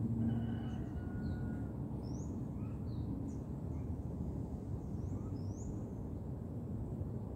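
Small birds chirping: scattered short, high, rising calls over a steady low background rumble.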